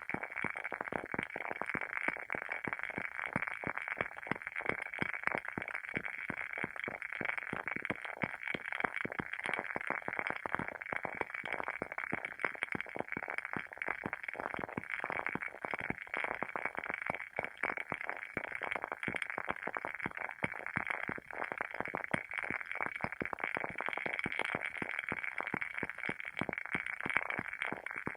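Wooden wick of a WoodWick candle crackling as it burns: a dense, unbroken run of small pops and clicks.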